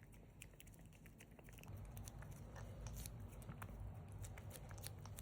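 Faint scattered clicks and crinkling of a plastic liquid cat treat sachet being handled and opened.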